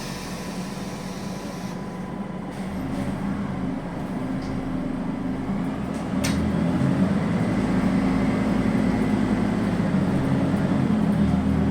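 Scania N280UB city bus's CNG engine heard from inside the cabin, running and then pulling away from a stop: the engine note rises a little a few seconds in and grows louder about six seconds in. A single sharp click comes about six seconds in.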